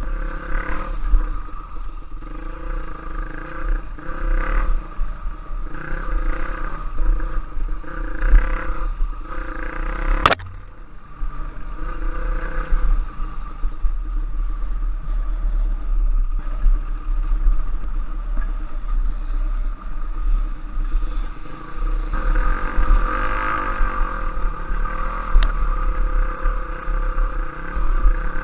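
Trail bike engine running on a dirt trail, the throttle opening and closing in repeated surges, with a sharp crack about ten seconds in and a louder stretch of running later on. A low rumble runs underneath.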